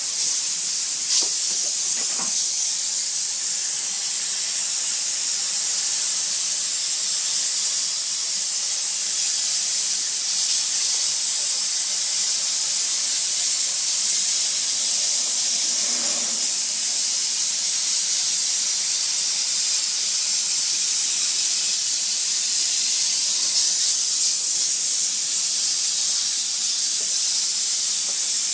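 Enrich Fogger 17 bed bug sprayer running continuously, its nozzle blowing out a steady, high-pitched hiss.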